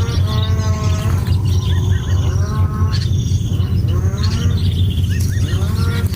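Many short, repeated, overlapping bird calls and higher chirps over a loud, steady low hum.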